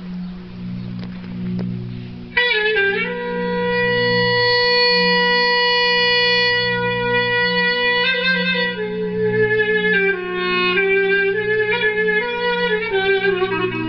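Clarinet playing a long held note, then quick ornamented Turkish-style melodic runs, over a steady low drone.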